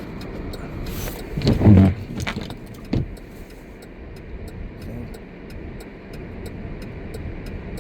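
Car cabin noise while driving slowly on snow-covered streets: a steady low rumble of engine and tyres with a light, rapid high ticking like jangling keys. A short voice-like sound comes about one and a half seconds in, and a single knock about three seconds in.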